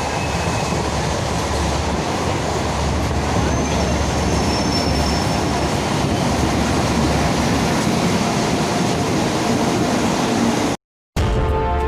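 Indian Railways passenger train running, a steady rumble of wheels and carriage noise. It cuts off abruptly near the end and music begins.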